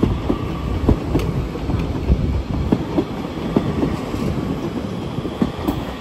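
Class 331 electric multiple unit rolling slowly past at the platform. Its wheels click over rail joints in pairs, about once a second, over a steady rumble.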